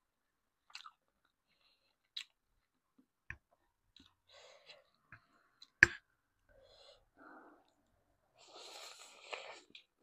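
Close-miked mouth sounds of a person eating: chewing with scattered small wet clicks, one sharp louder click a little before the middle, and a longer stretch of noisy chewing near the end.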